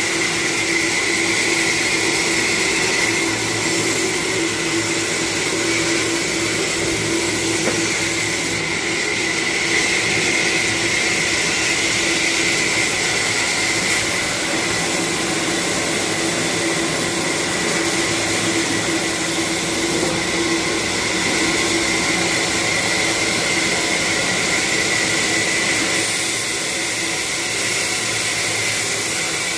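Chainsaw running steadily at an even pitch while cutting a coconut palm.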